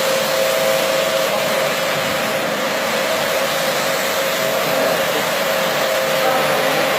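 Carpet-washing machine running steadily: a constant motor whine over an even rushing hiss.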